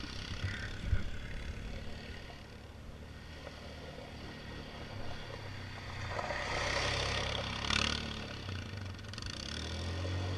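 Motorcycle engine running at a low, steady level. It grows louder about six seconds in and fades again about three seconds later, with a brief click near the loudest point.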